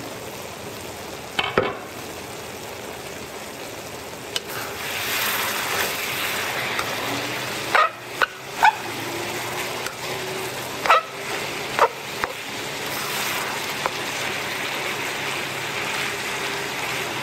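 Ground pork sizzling in a wok while a spatula stirs and scrapes it. The sizzle grows louder about four seconds in, and the spatula knocks against the pan several times.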